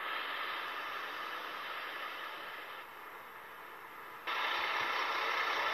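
Trains running through a station, heard as a steady, hiss-like rushing noise with no clear engine note. The sound drops about three seconds in and comes back abruptly louder a second later, at a cut to another passing train.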